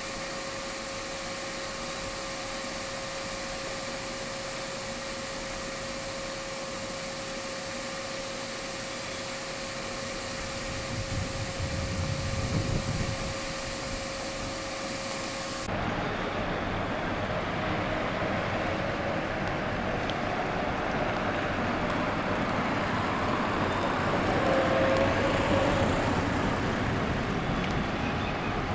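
Railway yard sound: a steady hum, with an SM42 diesel shunting locomotive's engine rumbling for a few seconds near the middle. About halfway through, the sound changes abruptly to louder, rushing outdoor noise by the tracks that swells towards the end as a train approaches.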